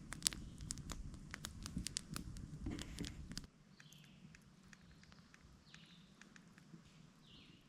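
Small campfire crackling with many sharp pops for a few seconds. It gives way abruptly to a quieter outdoor stretch with a few faint, high bird chirps.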